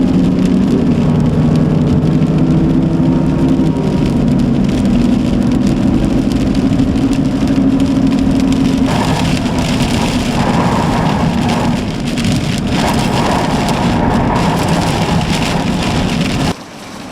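Heavy rain and wind noise on a moving car, heard from inside the cabin, over the steady note of the car's engine, which shifts pitch a few times. The noise grows harsher about halfway through and drops off suddenly shortly before the end.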